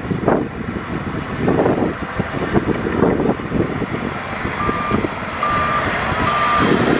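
Heavy earthmoving machinery engine running with uneven surges. From a little past halfway, a reversing alarm starts, giving evenly spaced single-tone beeps a little under a second apart: the machine is backing up.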